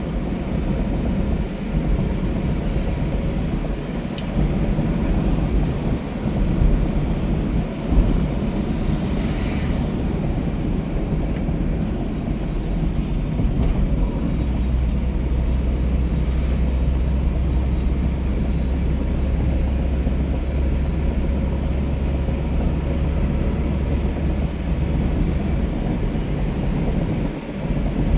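Steady low rumble with wind noise on the microphone, like riding in a moving vehicle.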